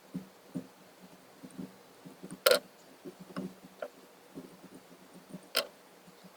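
A scattering of soft knocks and small ticks, with two sharp, loud clicks about two and a half seconds in and again near the end.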